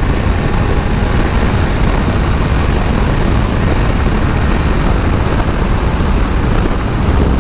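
Kawasaki Z900's inline-four engine running steadily while riding at speed, mixed with heavy wind rush over the helmet microphone.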